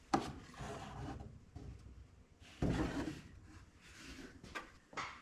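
Handling sounds around an open engine oil filler while a plastic oil bottle drains into it: a sharp click at the start, a short scraping rustle, a louder knock with a scrape a little past halfway, and a few light clicks near the end.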